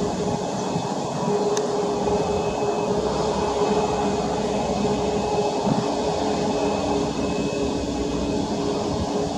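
Steady interior noise of a Boeing 737 MAX 8 on the ground, its CFM LEAP-1B engines at idle and the air conditioning running, a rush with a steady hum through it.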